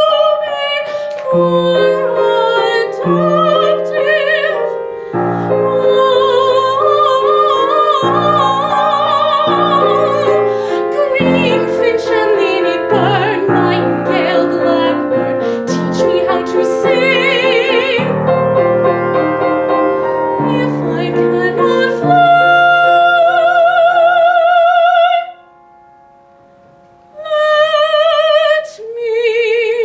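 A solo female voice sings slow, held musical-theatre phrases with vibrato over a piano accompaniment. About three-quarters of the way through there is a brief pause, and then the voice comes back for short closing phrases.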